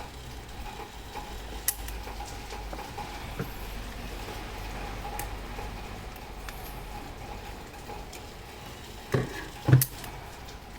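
Mechanical clock movement ticking faintly amid handling noise, with two loud knocks close together near the end.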